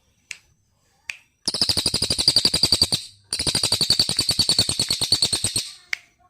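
A small songbird singing two long, fast trills of about a dozen sharp notes a second, each lasting two seconds or more, after a couple of short clicks.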